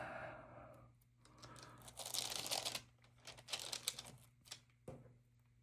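Stamp album pages being handled and turned: two short bursts of crinkling paper rustle, then a soft tap.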